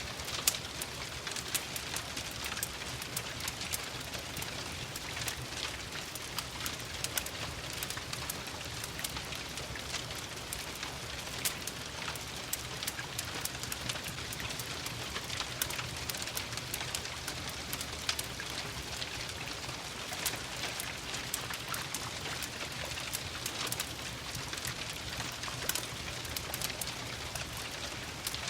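Ambience mix of steady rain and a crackling wood fire: an even hiss of rain broken by frequent sharp pops and ticks.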